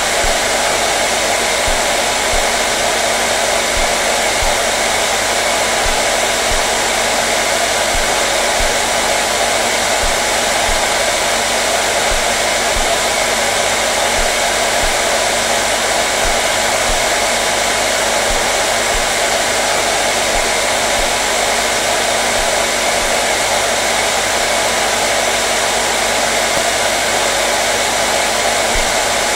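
Hair dryer running continuously, a steady even rush of air over a motor hum that does not change.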